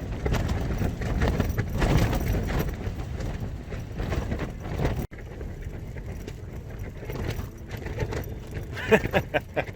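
Tent fabric flapping and shaking hard in gale-force wind, with the wind rushing over it and many irregular slaps. The noise drops abruptly about five seconds in, then continues more quietly.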